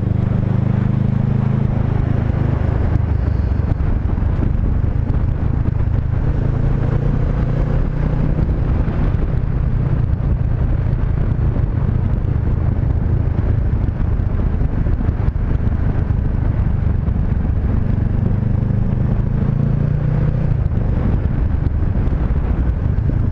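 Honda CB500X parallel-twin engine running as the motorcycle rides along, over a steady rush of wind noise. The engine note shifts a little about two seconds in and again near the end.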